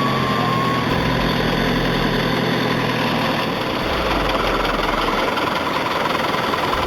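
Tractor engine running hard, a steady low hum under a rough, dense rush of noise; the hum drops away about halfway through while the noise carries on.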